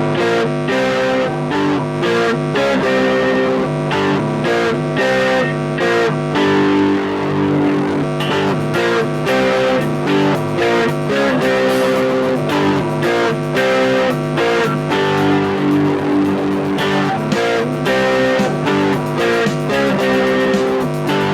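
Electric guitar playing a rock intro riff, its notes changing in a steady rhythm without a break.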